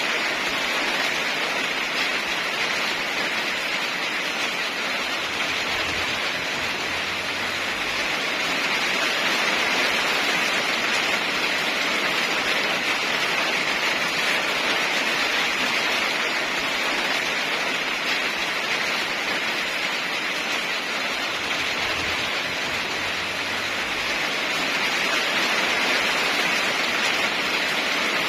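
Heavy rain falling steadily, a dense even hiss that swells and eases slightly in loudness.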